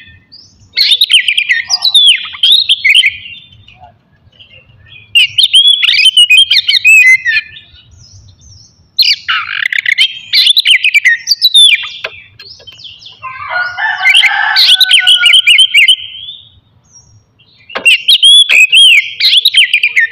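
Oriental magpie-robin (kacer) singing: five loud bouts of quick, varied whistled phrases with short pauses between, one of them a harsher, lower run of rapid repeated notes.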